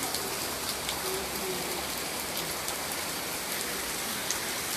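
Hard rain falling steadily: a dense, even hiss with scattered sharp drop ticks.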